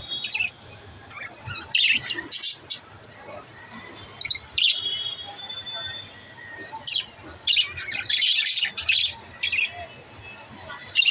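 Pet budgerigars chirping in short, high bursts, busiest about two seconds in and again from about seven to nine seconds in.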